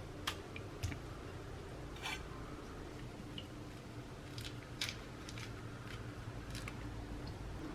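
A scattering of light, sharp clicks and taps, one every second or so, over a low steady hum.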